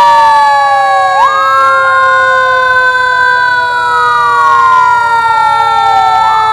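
Emergency vehicle siren wailing in a slow cycle: it sweeps up sharply about a second in, holds high, slowly falls, and sweeps up again near the end. Under it runs a steady tone that slowly sinks in pitch.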